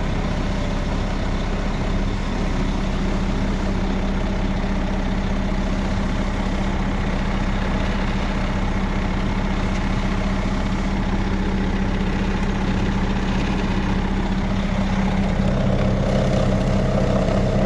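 Mercedes 450 hp inline-six diesel in a 2005 Sterling A9500 heavy truck, idling steadily just after starting right up, heard from inside the cab. Its note shifts slightly near the end.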